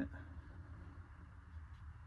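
Quiet room tone: a low steady hum under faint background noise, with a few faint ticks.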